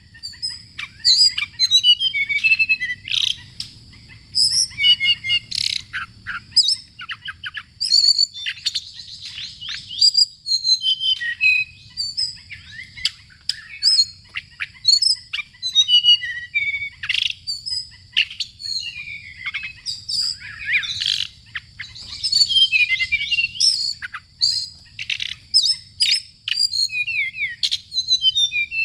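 Birds chirping and calling densely, rapid overlapping chirps, trills and quick downward sweeps with no pause, over a steady high-pitched tone.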